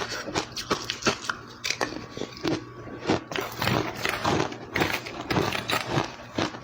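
Ice being bitten and chewed close to the microphone: a quick, irregular run of crisp crunches, several a second.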